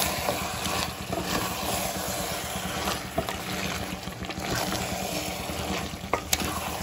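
Marinated mutton sizzling and frying in oil in an open pressure cooker on full flame while being stirred with a wooden spatula: a steady sizzle with a few light knocks of the spatula.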